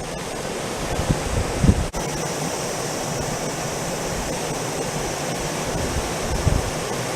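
Steady rushing of a small mountain stream flowing over river stones, with a few soft low buffets of wind on the microphone and a brief break about two seconds in.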